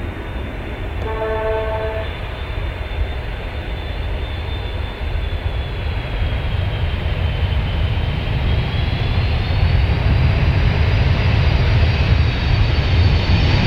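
Jet airliner's engines running, a high whine that wavers in pitch over a deep rumble, growing louder toward the end. A short horn-like tone sounds about a second in.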